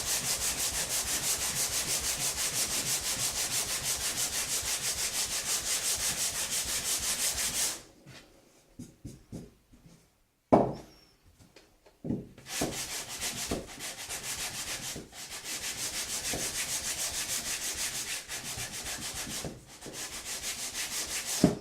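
180 grit sandpaper on a sanding block rubbed back and forth over timber in rapid, even strokes, a finishing pass with the grain. The sanding stops about a third of the way through, giving way to a few sharp knocks. It then resumes in shorter runs, with another knock near the end.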